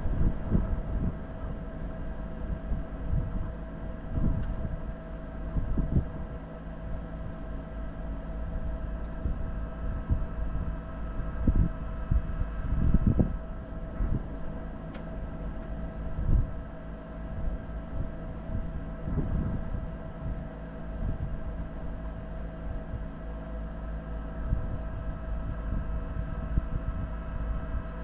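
4x4 vehicle driving over a rough off-road track: a steady engine drone, with irregular low thumps and jolts every few seconds as it goes over bumps.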